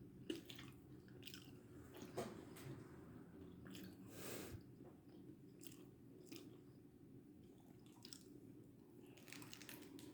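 Faint chewing and crunching of food close to the microphone, with scattered small clicks and a brief rustle about four seconds in.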